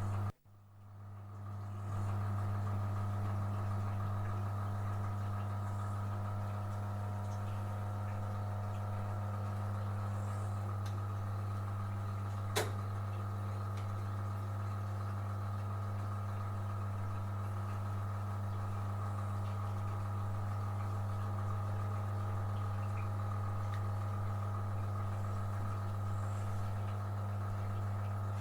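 A steady machine hum, low and unchanging, that fades in over the first couple of seconds. A single sharp click comes about halfway through.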